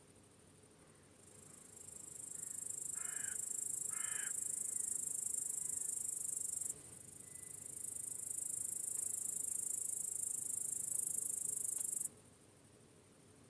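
High-pitched chorus of crickets that swells in, breaks off suddenly, swells again and breaks off suddenly once more. Two short harsh bird calls about three seconds in, followed by faint whistled notes.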